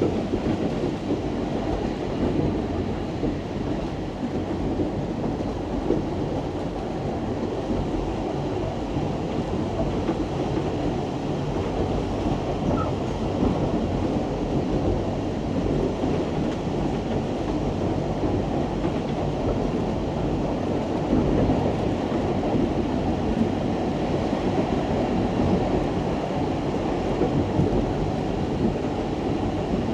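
Isle of Man Steam Railway train running along the line: a steady rumble of wheels on the rails.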